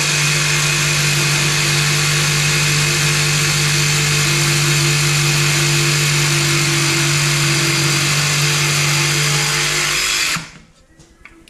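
DeWalt DCS331 20V cordless jigsaw running and sawing through wood in an angle cut, at a steady speed for about ten seconds, then stopping abruptly near the end.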